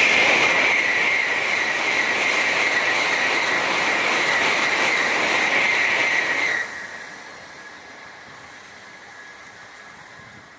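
Tokaido Shinkansen N700-series bullet train passing at speed: a loud steady rush with a high whine running through it, which drops sharply about two-thirds through as the train goes by, leaving a fading rumble.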